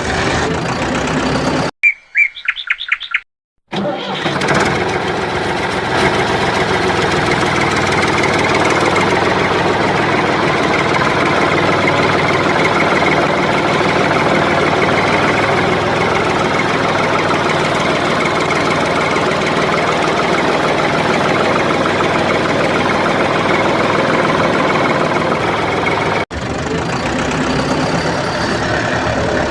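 Steady engine-like running sound of a tractor, with a short gap about two seconds in that holds a few quick high chirps before the running sound comes back, and a brief break near the end.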